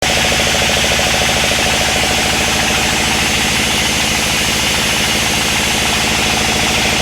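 Sawmill machinery running steadily and loudly, with a rapid, even pulsing and a hiss over it.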